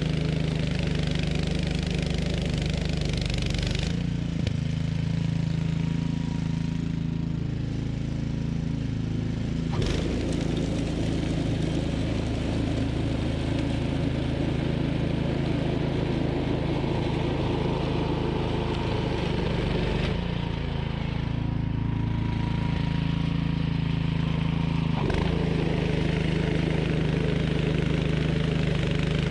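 Toro Power Max commercial 1428 snowblower's engine running steadily under load, with a rushing hiss above it that comes and goes. The sound changes suddenly several times.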